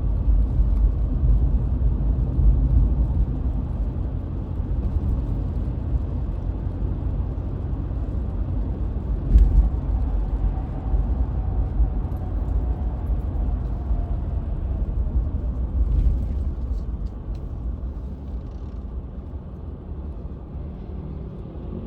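Steady low rumble of road and engine noise heard inside a moving car, with two brief knocks about nine and sixteen seconds in. The rumble eases off over the last few seconds.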